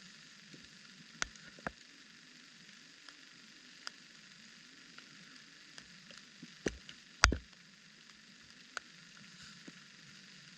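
Steady hiss of light rain, with scattered sharp taps and knocks, the loudest a pair of knocks about seven seconds in.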